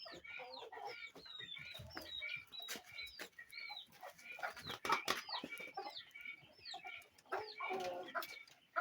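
A flock of Brahma and Noiler chickens calling: many short, high peeps that fall in pitch, mixed with lower clucks and scattered sharp clicks.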